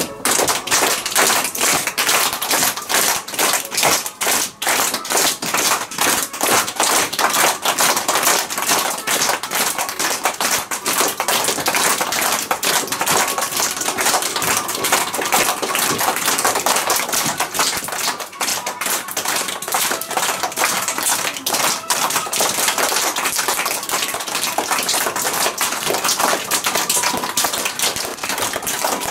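A small audience clapping: a dense, even patter of hand claps, sustained and loud.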